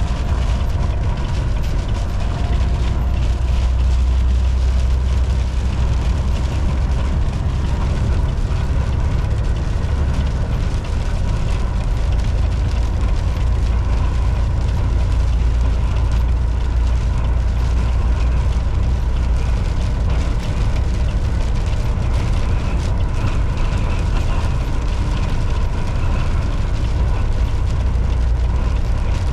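Volvo VNL 760 semi truck cruising on the highway: a steady low engine drone with road noise, unchanging throughout, with a faint steady whine.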